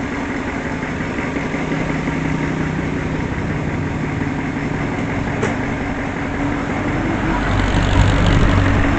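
A vehicle engine running steadily, with a low hum that grows louder and heavier near the end.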